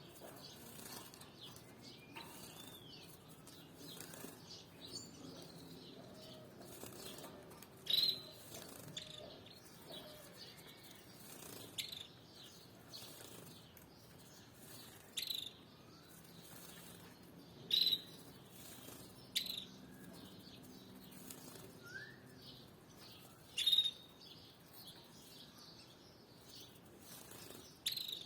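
Canaries giving short, sharp call notes, about seven of them at irregular intervals, over a faint background of quieter bird sounds.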